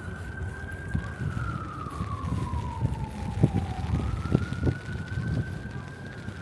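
Emergency vehicle siren wailing: the pitch holds high, sinks slowly over about three seconds, then climbs again about four seconds in. Underneath is steady street rumble with a few short low thumps in the middle.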